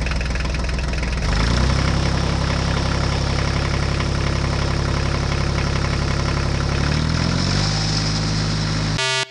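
Tractor engine running steadily. Its pitch rises about a second in, holds, settles back lower near the end, then cuts off suddenly.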